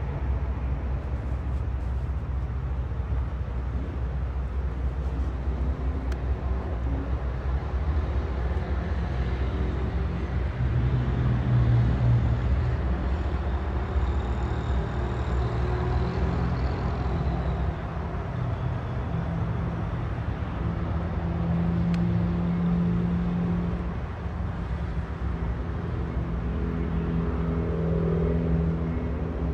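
Diesel freight locomotive engine running with a steady low drone, its pitch stepping up and down now and then.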